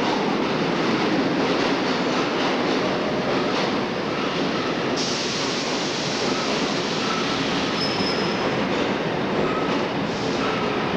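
New York City subway work train of R22 and R30 cars running through a station with a steady rumble of wheels on rail. About five seconds in, the sound turns suddenly brighter and hissier, and short thin wheel squeals come and go after that.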